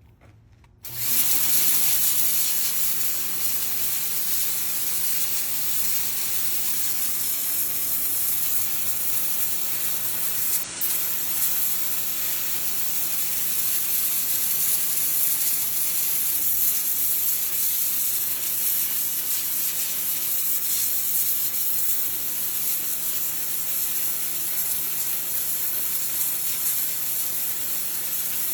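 Oasser CW8 electric pressure washer running and spraying, a steady hiss of water over the hum of the motor. It starts about a second in and breaks off briefly near the middle.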